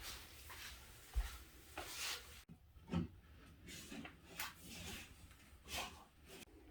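Faint handling noises: scattered light rubs and soft taps as map pieces are handled and pressed onto a wall, with a small thump about a second in.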